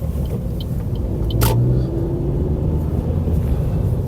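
Steady low rumble of a car heard from inside the cabin while driving, with one sharp click about one and a half seconds in.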